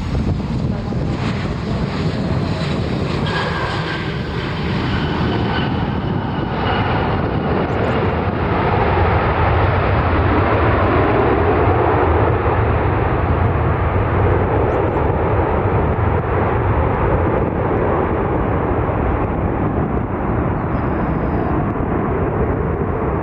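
Jet airliner's engines passing: a loud, steady rush that swells to a peak about halfway and then eases. A faint whine falls in pitch during the first several seconds.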